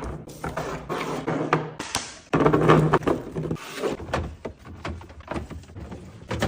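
Irregular knocks, taps and clicks of food containers and items being handled and set down while a refrigerator is stocked and arranged, busiest about two to three seconds in.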